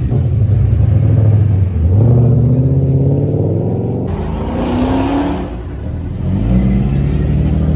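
Car engine running loudly and accelerating. Its pitch climbs about two seconds in and again around five seconds, dips, then picks up once more near the end.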